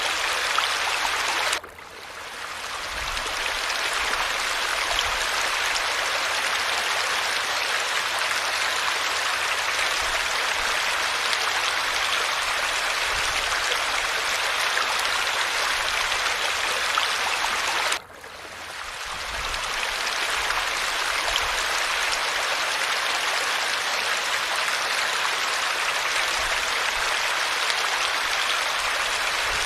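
Steady rush of falling water. It cuts out abruptly twice, about one and a half seconds in and again about eighteen seconds in, and each time swells back to full over a couple of seconds.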